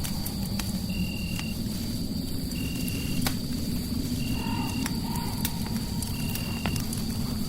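Fireplace crackling with scattered sharp pops over a steady low rumbling noise. A short high chirp repeats about every second and a half, over a faint steady high whine.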